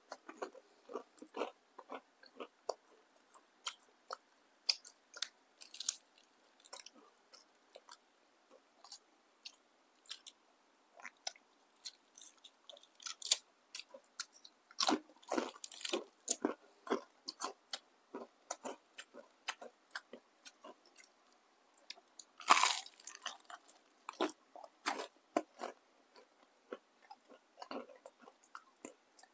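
Close-miked chewing and crunching of crispy fried tempeh fritters: irregular sharp crisp crunches with softer chewing between, the loudest bites a little past halfway and again about three-quarters through.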